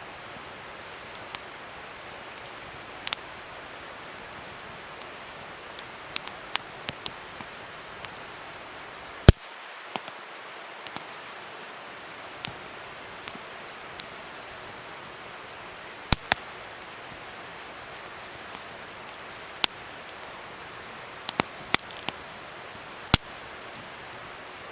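Wood fire crackling: a steady hiss with irregular sharp pops, several close together around six to seven seconds in and the loudest pop about nine seconds in.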